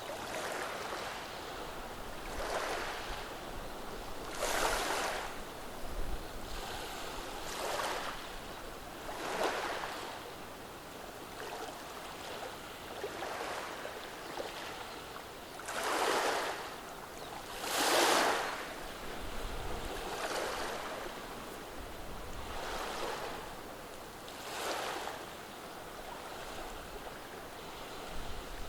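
Gentle sea waves washing over a beach of rounded stones: a soft rushing surge every couple of seconds, the two strongest about two-thirds of the way through.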